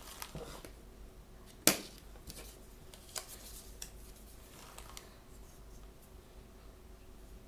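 Hands handling toy packaging: light rustling and scattered small clicks, with one sharp, loud click or snap of plastic about a second and a half in.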